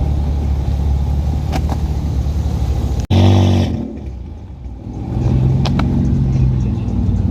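Car engine running steadily, with an abrupt break about three seconds in followed by a brief loud rev that dies away, then engines running again.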